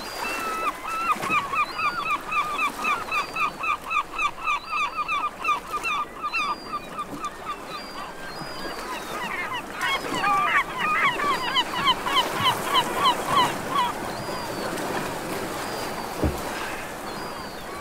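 Birds calling in two long runs of short honking notes, about four a second, over a steady rushing noise.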